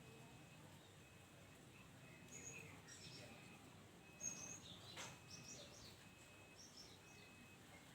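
Quiet outdoor background with faint, scattered chirps of distant small birds and a thin high note repeating about once a second; the dove is not cooing here.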